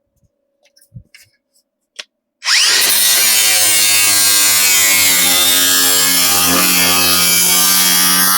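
A handheld electric grinder spins up about two and a half seconds in and then runs steadily at full speed, working on the car's sheet-metal panel. Before it starts there are a few light taps.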